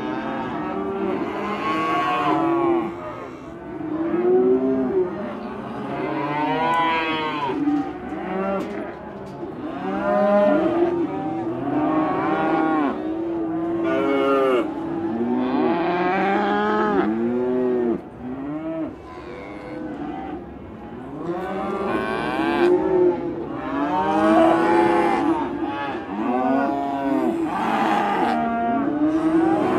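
A herd of cattle mooing, many calls overlapping almost without a break, each rising and then falling in pitch. There is a short lull a little past halfway.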